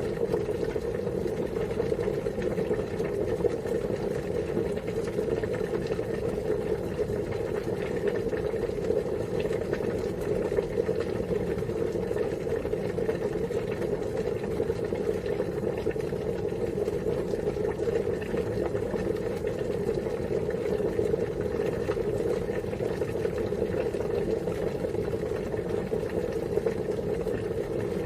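Water boiling, a steady bubbling rumble that does not change.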